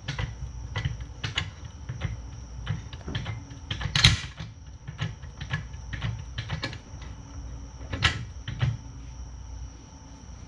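Metal parts and hand tools clinking and knocking irregularly as car suspension parts are handled and fitted, with a louder clank about four seconds in and another about eight seconds in. A steady high cricket chirring runs underneath.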